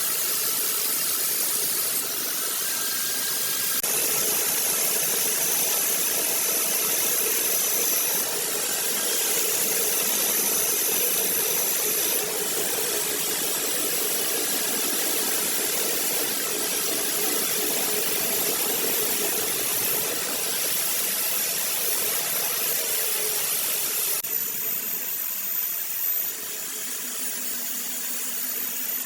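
Steady workshop machine noise: a loud, even hiss with faint steady tones. The sound shifts abruptly several times, as if short clips are cut together.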